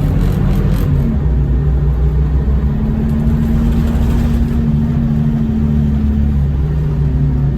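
Scania L94UB bus engine running under way, a steady drone with low rumble. Its pitch shifts briefly near the start and again near the end, and holds level for a few seconds in between.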